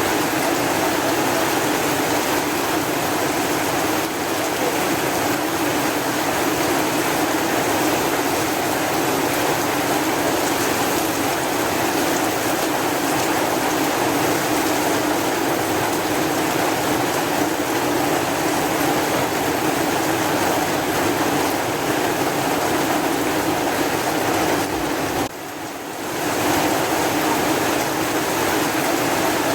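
Steady rain, an even hiss of falling water with no distinct drops or thunder. Near the end it dips in level for under a second, then returns to the same steady hiss.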